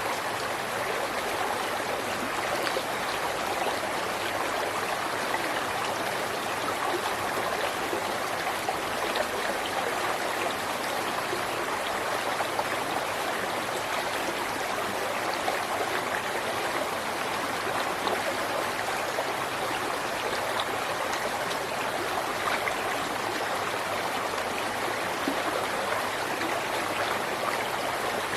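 River water flowing steadily over rocks, an even rushing sound with small splashes and trickles through it.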